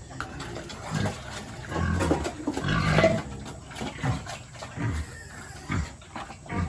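Pigs grunting: a string of short, low grunts about once a second, the loudest and harshest about three seconds in.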